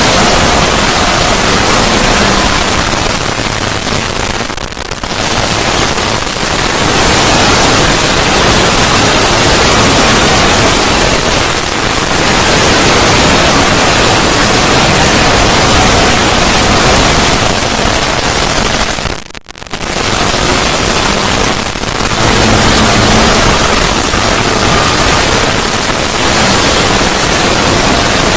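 A 'void' sound effect: loud, dense static-like noise spread evenly from low to high pitches. It dips briefly about five seconds in and drops out sharply for a moment about two-thirds of the way through.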